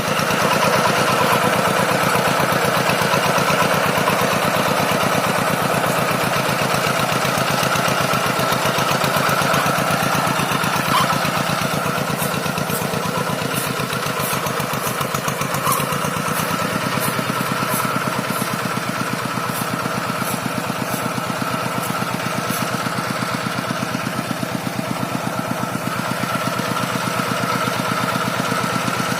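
Single-cylinder diesel engine of a walk-behind rice-paddy hand tractor running steadily, its rapid firing pulses even throughout. From about twelve seconds in to about twenty-three, faint regular ticks sound over it, roughly two a second.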